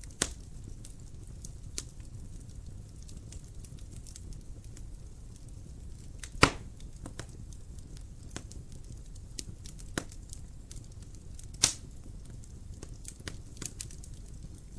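Wood fire burning in a fireplace: a low steady rumble of flames with scattered crackles and a few sharp pops, the loudest about six and a half seconds in and again at about ten and eleven and a half seconds.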